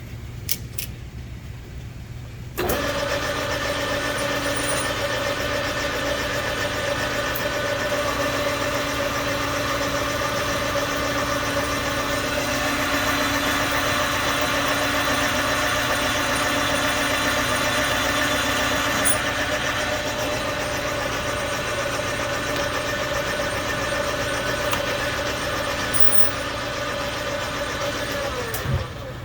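Metal lathe switched on and running steadily through a boring-bar pass in a pulley's bore, a constant machine whine with a few held tones. Near the end it is switched off and the whine falls away as the spindle spins down.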